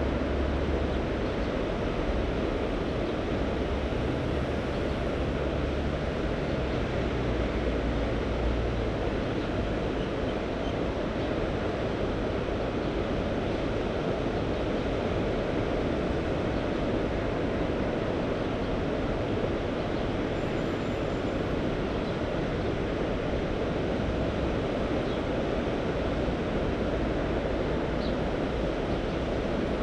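Sea waves washing steadily onto the shore, with a low rumble added for the first nine seconds or so.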